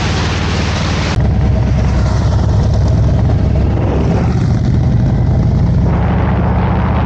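Harley-Davidson motorcycle's V-twin engine running steadily while riding, with wind noise across the microphone.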